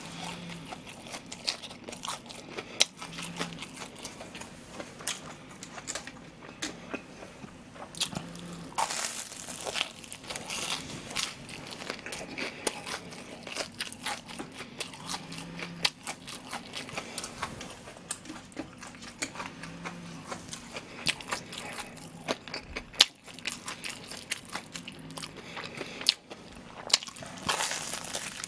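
Close-up chewing and crunching of a crisp deep-fried breaded pork cutlet (tonkatsu), with irregular crackling bites throughout.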